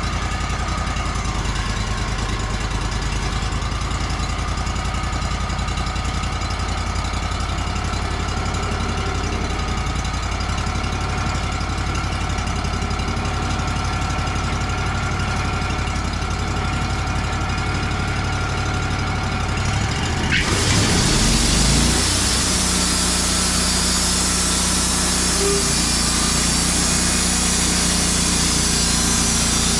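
Wood-Mizer sawmill's engine running steadily, then revving up about two-thirds of the way through and staying louder and brighter.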